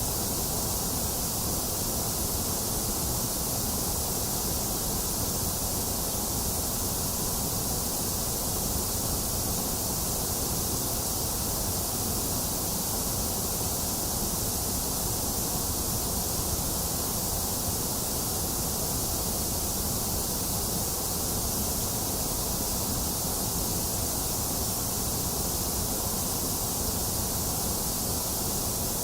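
Steady, electronically generated white noise: an unchanging hiss with a low rush beneath it, thinner in the middle range.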